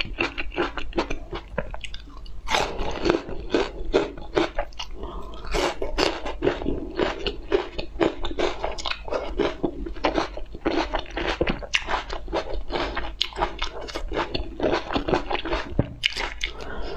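Close-miked chewing and crunching, many quick crunches in a row, from a person eating cherry tomatoes and bitter melon slices.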